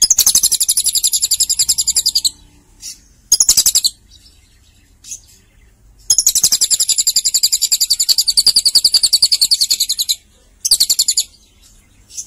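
Lovebird singing a cililin-style song: very fast, high-pitched trills in four bursts, the longest about four seconds.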